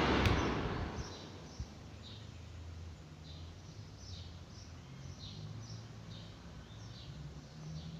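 Table fan's rushing airflow dying away within the first second after a click, as the fan is switched off and the blades slow down. After that a faint low hum remains, with a bird chirping repeatedly in short, high, falling notes.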